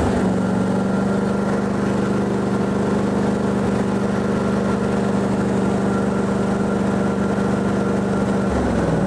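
John Deere D155 lawn tractor's Briggs & Stratton engine running steadily, run to warm up the oil before an oil change. Its pitch drops a little near the end.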